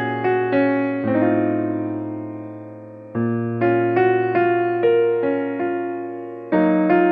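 Background piano music: slow chords and melody notes struck and left to ring and fade, with a long held chord that dies away before new notes enter about three seconds in.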